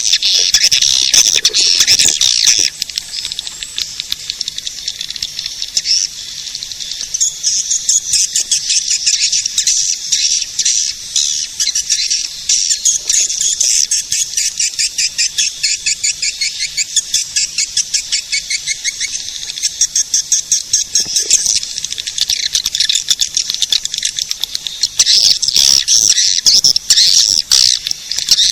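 Swiftlet lure call: dense, rapid, high-pitched twittering of swiftlets (walet), coming in waves that swell and ease, with no low sound in it.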